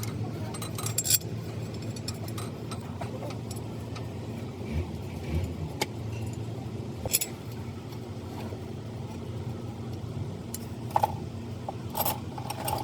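Hand tools clinking against metal engine parts now and then, over a steady low hum.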